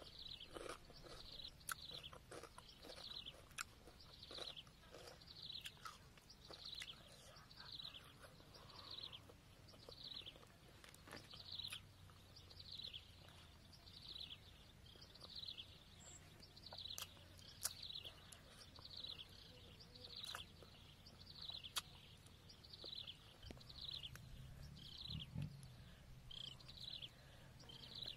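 A bird calling, a short high note falling in pitch repeated steadily about once a second, with faint scattered clicks.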